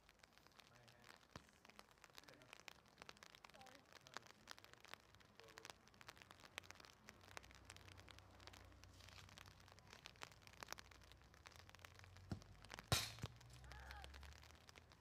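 Faint, scattered ticking and crackling of light rain, then one sharp thump of a soccer ball being kicked about thirteen seconds in.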